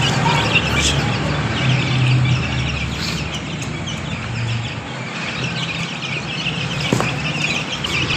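A crowd of Ayam Cemani chicks cheeping: a dense, continuous chorus of short high peeps over a low steady hum.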